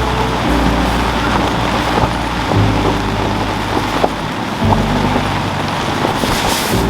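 Steady rain falling, under a low hum whose pitch shifts every couple of seconds.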